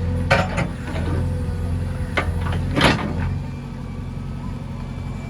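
JCB 3DX backhoe loader's diesel engine running steadily, with three sharp knocks: one just after the start, one about two seconds in, and the loudest near three seconds in.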